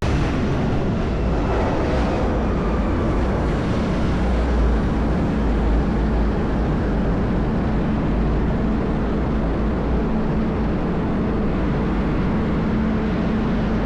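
Steady low rumble and hiss of a vehicle in motion, with a faint steady hum underneath.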